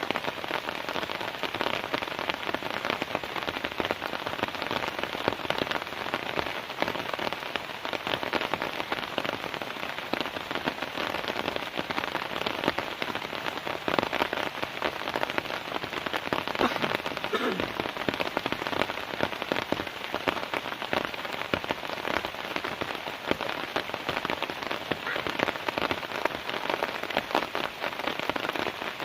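Heavy rain falling steadily: a dense, even patter of countless drops striking a surface.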